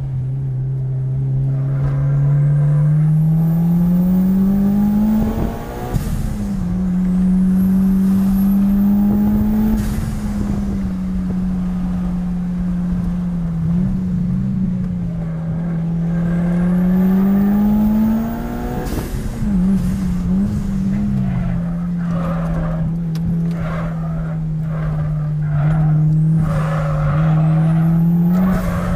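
Mitsubishi Lancer Evolution IX's turbocharged four-cylinder engine heard from inside the cabin while driven hard. Its note climbs and drops back several times as the driver accelerates, shifts or lifts off.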